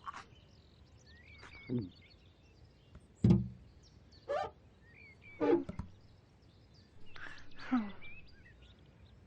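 Cartoon sound effects: a run of short, separate squeaks and vocal-like calls with a sharp thump about a third of the way in, the loudest sound, over faint bird chirping.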